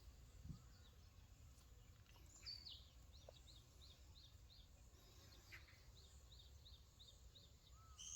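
Faint bird calls: a steady series of short, high chirps, about two to three a second, over a low background rumble.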